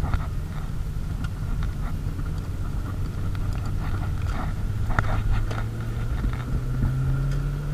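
A car engine running under way, its pitch climbing slowly as the revs rise towards the end, with scattered light clicks over it.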